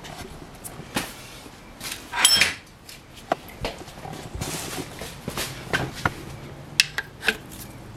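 Metal hand tools clinking and knocking against engine parts: a scatter of sharp clicks and taps, with a brief ringing metallic scrape about two seconds in.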